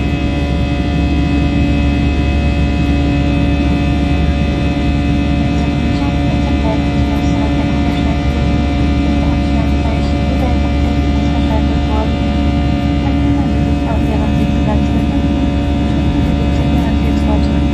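Airbus A321 cabin noise: a steady, loud drone of the engines and airflow, with several steady humming tones on top.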